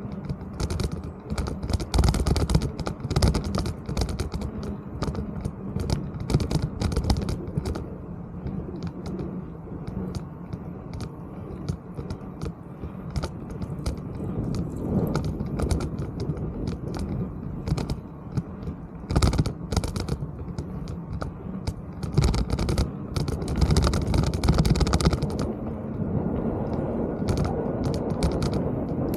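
Mountain bike riding over rough trail: rapid, irregular rattling clicks and knocks from the jolting bike, over a steady low rumble of wind and tyres.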